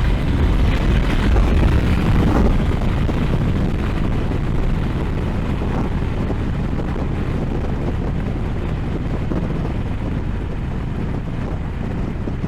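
Riding sound of a 2020 Honda Africa Twin DCT heard from an action camera: wind rushing over the microphone along with the motorcycle's engine and road noise, a little louder in the first few seconds, then steady.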